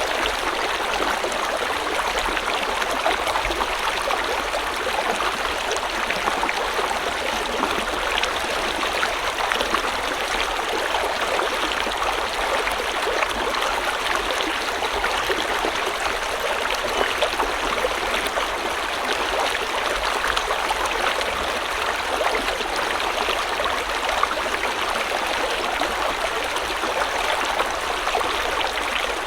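River water flowing over rocks: a steady rushing and babbling, with fine splashing and gurgling detail.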